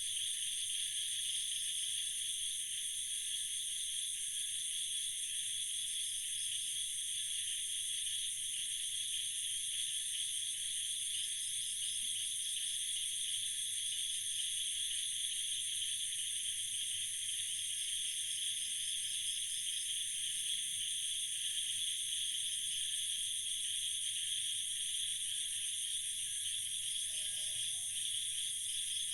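Steady, high-pitched, dense chorus of night insects, with several shrill layers trilling together without a break.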